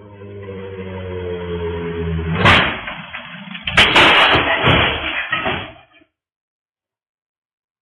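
A motorcycle's engine growing louder as it approaches, then a sharp crash about two and a half seconds in as it hits the curb. A second, louder crash with clattering follows from about four to six seconds, and then the sound cuts out abruptly.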